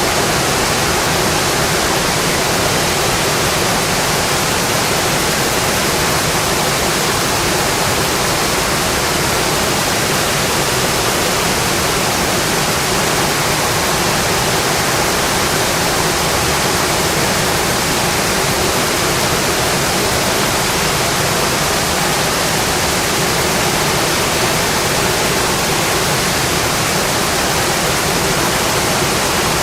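Rain falling steadily on a metal roof, an even, unbroken hiss.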